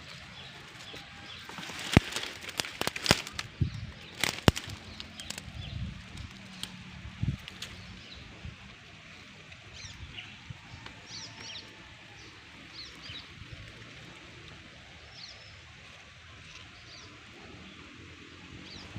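A bird chirping in short, scattered calls, with a cluster of sharp clicks and knocks in the first few seconds.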